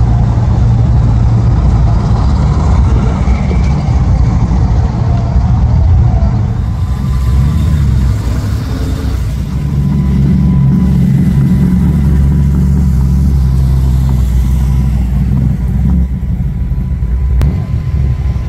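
Classic cars driving slowly past one after another, their engines running.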